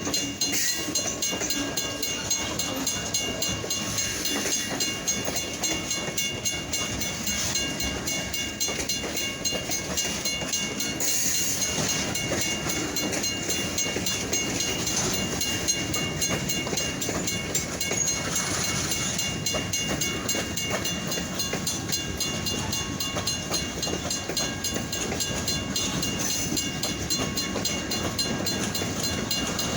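Freight train rolling past, its wheels clicking and clacking steadily over the rail joints, with a thin steady high tone above it.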